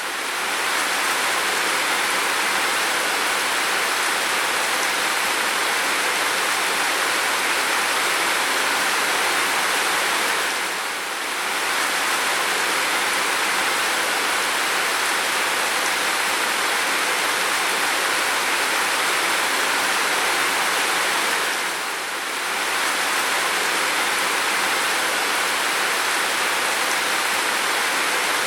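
Heavy rain falling in a steady, even hiss, with two short dips in loudness about eleven and twenty-two seconds in.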